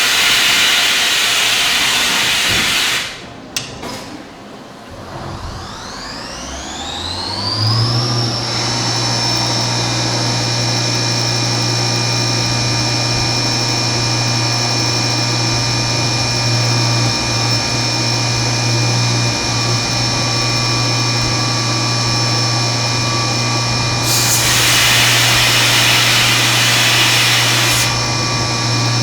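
Milling machine spindle spinning up with a rising whine, reaching speed about eight seconds in and then running steadily during machining of billet aluminum. A loud hiss sounds for the first few seconds and again near the end.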